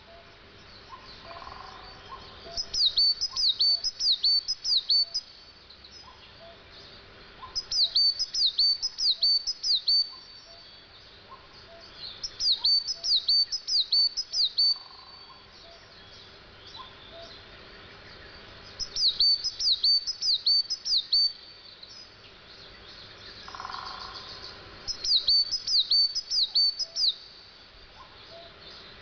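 A songbird singing in short phrases, each a quick run of about seven high, downward-sweeping notes. There are five phrases, several seconds apart.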